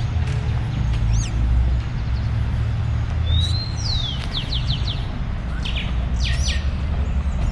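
Birds chirping and whistling in short separate calls, including a gliding whistle and a quick run of about five notes near the middle, over a steady low rumble of distant traffic or wind on the microphone.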